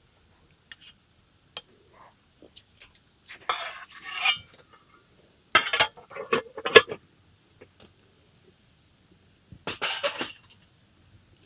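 Metal camping cookware being handled: a pot, lid and mess-kit pieces clinking and clattering in three short bursts, with scattered single clicks in between.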